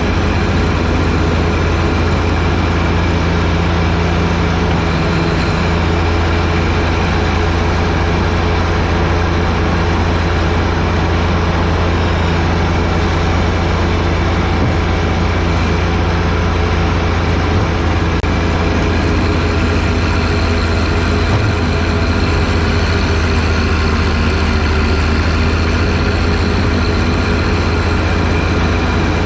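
John Deere 1025R compact tractor's three-cylinder diesel engine running steadily, driving a PTO-powered 47-inch snowblower.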